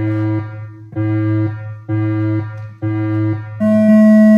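Electronic beeps from a race timing system's start countdown: a run of short, low beeps about once a second, then a long, higher beep near the end that signals the start.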